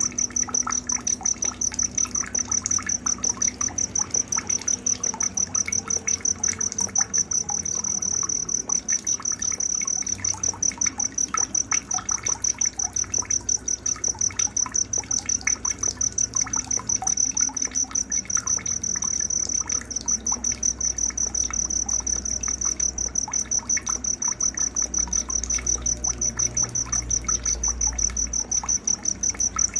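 Cricket trilling steadily in fast, even pulses, the loudest and most constant sound, with scattered short bird chirps and a faint trickle of water beneath it: a night-time nature soundscape used to train songbirds.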